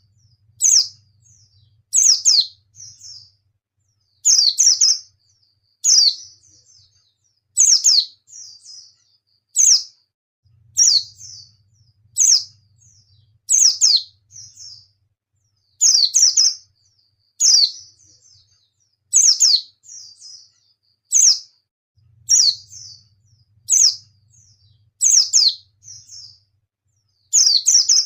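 White-eye (pleci) calling over and over: a loud, sharp, downward-sweeping high note about every one and a half to two seconds, each followed by a softer short twitter.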